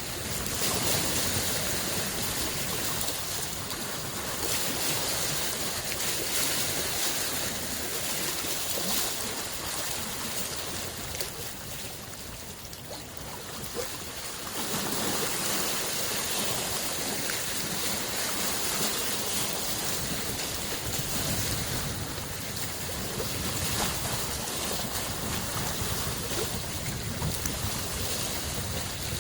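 Small lake waves washing onto the shore: a continuous splashing wash that swells and eases, softening for a few seconds about halfway through.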